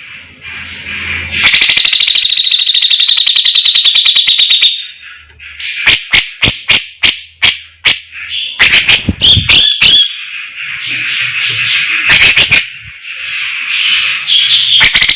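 Javan cucak jenggot (grey-cheeked bulbul) singing loudly: sharp separate whip-like notes, a fast buzzing trill starting about a second and a half in and lasting about three seconds, then more sharp notes and chatter, and another trill near the end.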